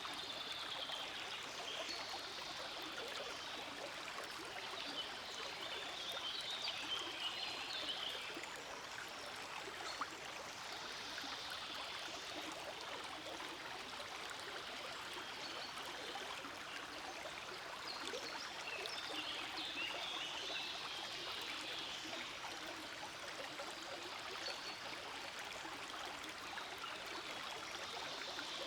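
Forest stream flowing steadily, a continuous rush of water with brighter splashy patches that come and go every few seconds.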